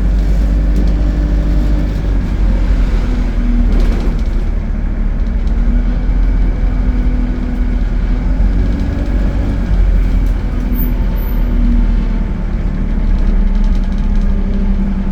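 Alexander Dennis Enviro 200 bus running with a steady low rumble, an engine tone rising and fading every few seconds.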